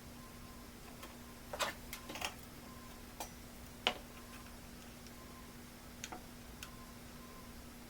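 A few sharp clicks and taps of small computer parts and packaging being handled, over a faint steady hum and a soft regular tick about every three-quarters of a second.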